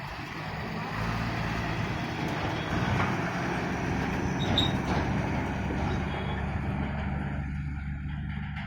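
Heavy diesel engine of a road-construction machine or truck running steadily, with a constant low engine tone and mechanical noise; the higher noise thins out near the end.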